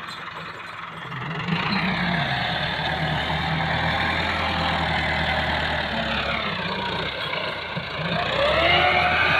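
Massey Ferguson tractor's diesel engine running, getting louder about a second and a half in, with the engine speed dipping and then climbing again in the second half.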